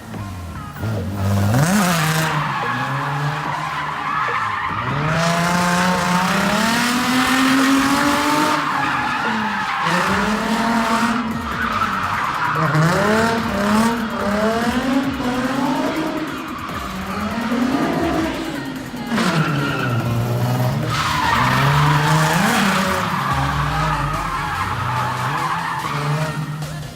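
Car drifting hard: the engine revs climb and drop over and over as the driver works the throttle, with the tyres squealing and skidding almost without a break.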